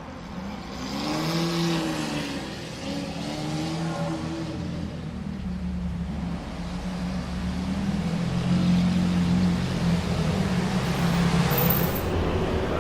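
Lamborghini Aventador V12 engine revving: the pitch rises and falls twice in the first few seconds, then settles into a steadier, louder drone from about halfway through.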